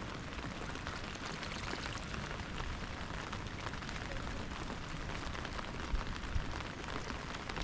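Steady rain falling, an even hiss full of fine drop ticks, with a couple of dull thumps about six seconds in.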